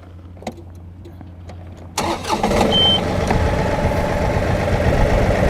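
John Deere 2038R compact tractor's three-cylinder diesel engine starting about two seconds in, then running steadily at idle. A short high beep sounds just after it catches.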